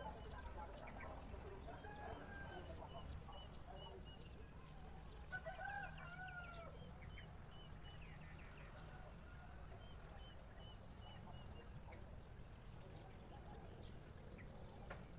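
Faint bird calls: a rooster crows about six seconds in, among scattered fowl calls. Runs of short high chirps repeat at about three a second, over a steady low background hum.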